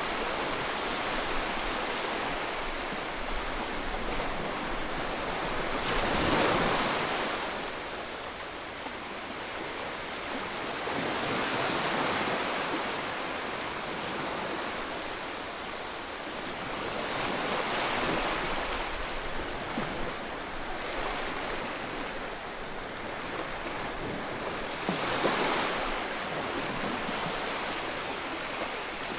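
Ocean waves breaking and washing in, a steady surf hiss that swells up roughly every six seconds as each wave comes in.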